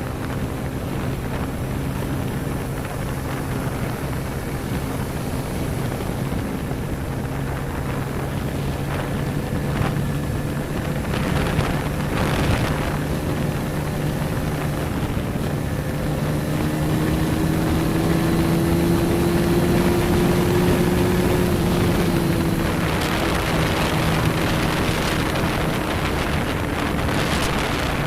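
Motorcycle engine running at a steady cruising speed, with wind buffeting the microphone; the engine note rises a little about halfway through, then settles.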